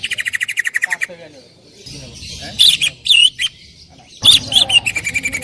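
Cucak ijo (green leafbird) singing loudly: a fast, rattling trill in the first second, a few loud separate notes in the middle, then another quick run of notes near the end that settles into a held whistle.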